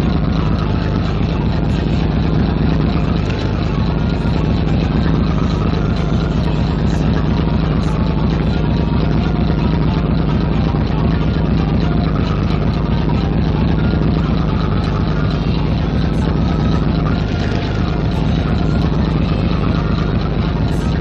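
Fishing boat's engine running steadily under way, a loud, even low drone with a slight dip in level about two thirds of the way through.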